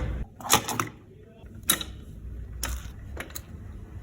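Clicks and knocks from a vintage Grundig turntable being handled and its mechanism worked as a record is set on it, about half a dozen sharp clicks over a faint low hum.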